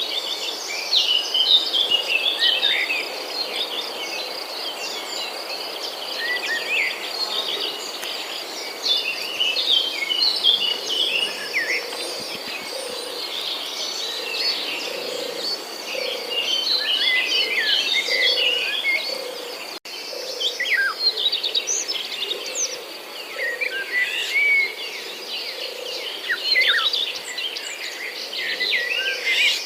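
Small birds chirping and calling, many short overlapping notes throughout.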